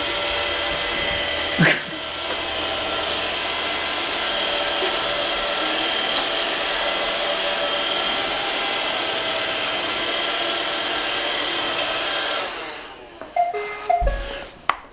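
Roomba robot vacuum running: a steady whir with whining tones from its motor and brushes, which cuts off about twelve and a half seconds in. A few short electronic tones follow near the end.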